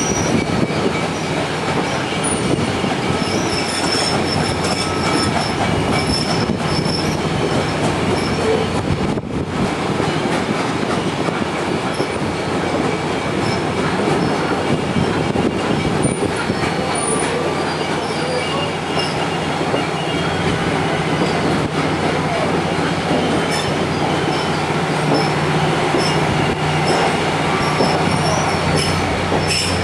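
Train rolling on the rails with a steady rumble, and steel wheels squealing now and then in thin, high-pitched bursts.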